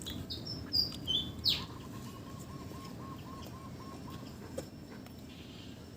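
Birds chirping: a few short, high notes in the first second and a half, then a lower, quick wavering series of notes lasting about two and a half seconds, over faint steady background noise.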